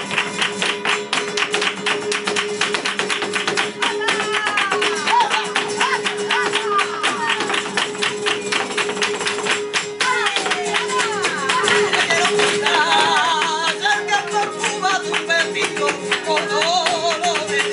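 Live flamenco solea por bulerias: guitar playing with dense, rapid percussive strokes and a sustained note underneath. A singer's wavering, ornamented cante comes in about four seconds in and again from about ten seconds on.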